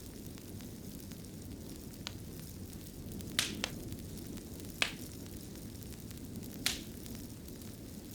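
Wood fire burning in a fireplace: a steady low rushing bed with a few sharp crackles and pops, a pair about three and a half seconds in, another near five seconds and one more near seven.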